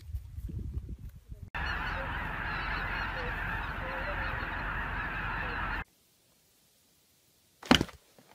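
A huge flock of geese calling all at once, a dense, steady din of honking that starts about a second and a half in and cuts off suddenly near six seconds.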